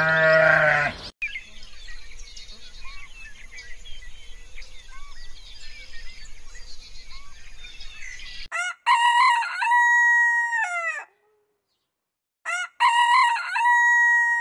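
A brief bleat, then faint birds chirping over a steady outdoor background, then a rooster crowing twice, each crow a long held call of about two and a half seconds, the loudest sounds here.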